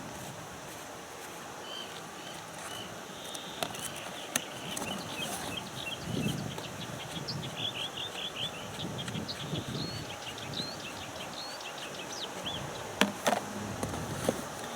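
Outdoor ambience with a small bird chirping in quick runs of short high notes, over low rustling and a few sharp knocks.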